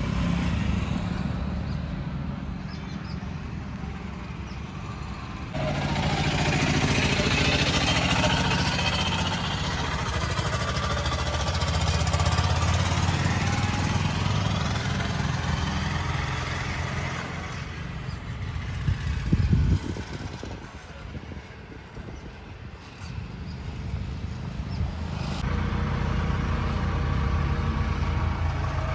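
Diesel engines of a backhoe loader and tractors running at work. The engine sound changes abruptly a few times, with a louder rumble about two-thirds of the way through.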